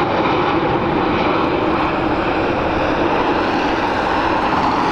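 Aircraft engines running with a loud, steady noise that holds even without rising or falling.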